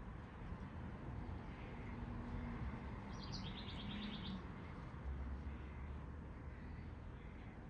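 A songbird gives a short, rapid trill of evenly repeated high notes about three seconds in, over a faint steady background rumble.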